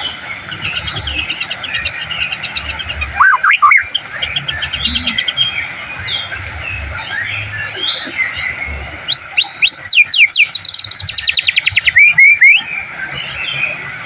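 White-rumped shama in full song: varied whistled phrases and fast trills, with a loud burst of rapid notes about three seconds in and a longer loud run of sweeping whistles and fast rattling notes from about nine seconds in.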